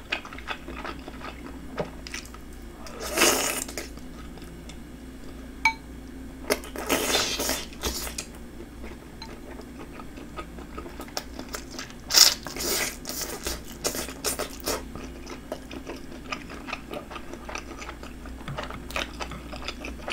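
Close-miked wet chewing of spicy red fish cake (eomuk), with many small mouth clicks, broken by a few longer loud slurps about three seconds in, around seven seconds, and around twelve seconds.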